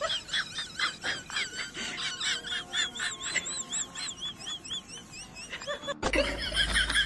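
Rapid high-pitched chirping calls from a small animal, several a second, that stop at a sudden cut about six seconds in.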